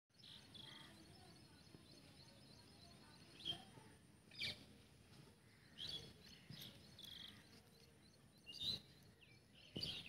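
Birds chirping: short high calls repeated every second or two over a faint steady outdoor hiss.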